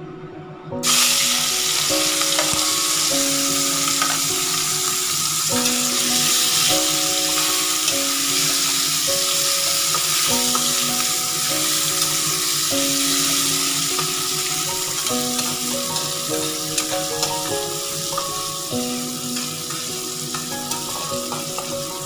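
Prawns dropped into hot oil in a kadai, bursting into a loud sizzle about a second in and frying steadily as they are stirred with a spatula. The sizzle slowly eases toward the end.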